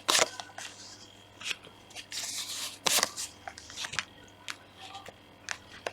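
Tarot cards being handled: a brief swish of cards sliding and a series of irregular light snaps and taps as cards are drawn from the deck and laid down.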